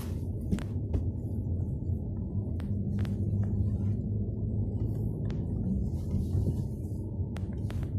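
Peugeot 406 driving, heard from inside the cabin: a steady low drone of engine and road noise, with scattered sharp clicks and knocks.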